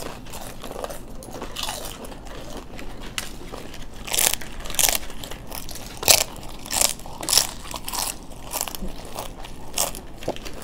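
People biting and chewing crisp papdi chaat, with irregular loud crunches of the fried wafers, clustered in the middle of the stretch.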